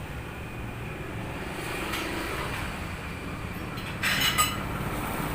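Metal parts clinking together in a short cluster about four seconds in, over a steady low hum.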